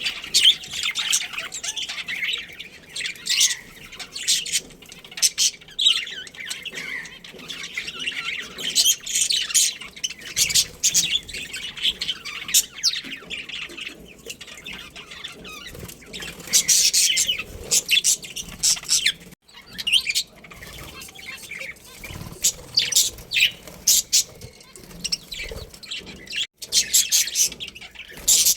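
A colony of budgerigars chirping and chattering: rapid high chirps in overlapping bursts, with short lulls between them.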